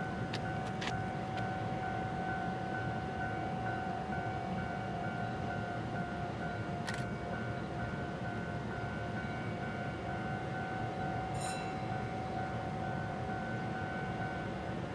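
Low-floor tram running: a steady rumble with a constant high whine held throughout, and a sharp click about seven seconds in and again about eleven and a half seconds in.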